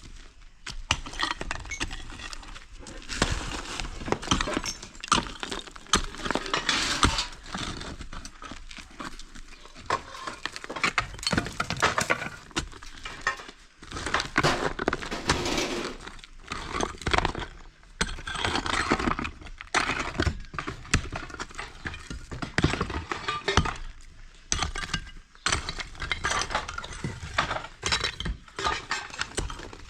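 Irregular cracks, knocks and clinks of material breaking and debris falling, coming in bursts of a few seconds with short lulls between: the sound of demolishing an old house.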